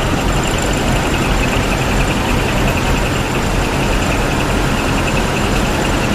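Large diesel truck engines running steadily, a continuous low rumble with no change in pace.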